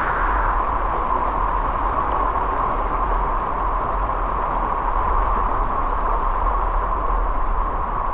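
Waterfall and rushing stream water: a steady, unbroken rush of noise with a low rumble underneath.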